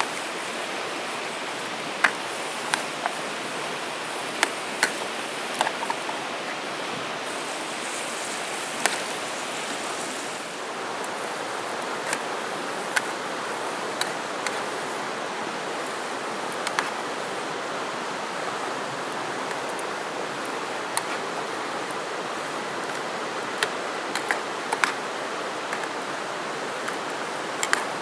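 Wood campfire crackling, with irregular sharp pops over a steady rushing hiss.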